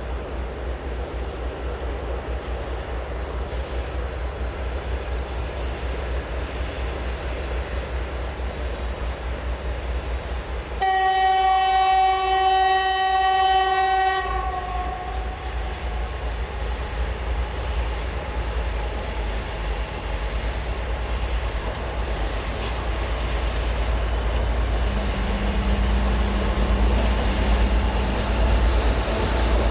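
Train running with a steady rumble and rail noise. About eleven seconds in, a locomotive horn sounds one steady blast of about three seconds, the loudest thing heard.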